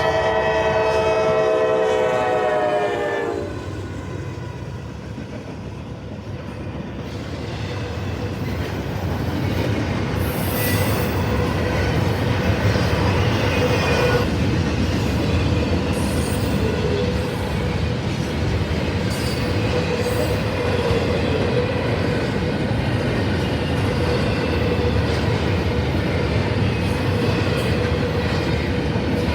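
Norfolk Southern freight train led by a GE Dash 9 locomotive: its horn sounds a chord that cuts off about three seconds in. The train then rolls past, its wheels and cars on the rails growing louder from about eight seconds in and running steadily after that.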